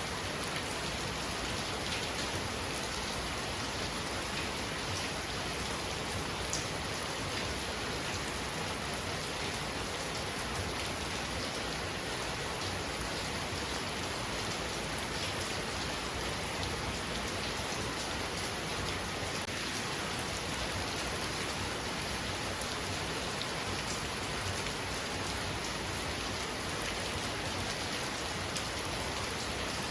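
Heavy rain falling steadily, with scattered drops ticking on a surface.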